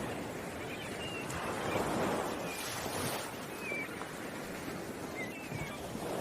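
Ocean waves washing in, the surf swelling and easing every couple of seconds, with short high bird chirps now and then over it.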